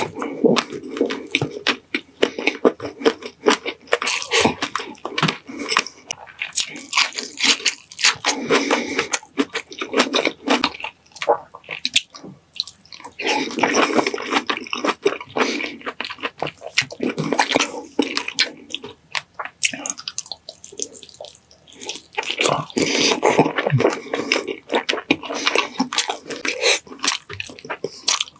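Close-miked eating sounds of pininyahang manok, a chicken dish in a creamy pineapple sauce: wet chewing, smacking and squishing in irregular clusters, with pauses between mouthfuls.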